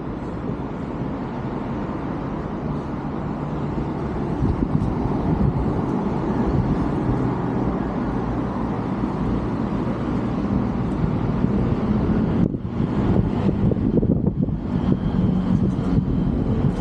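Road traffic: motor vehicles running past, a steady engine and tyre noise that grows louder a few seconds in.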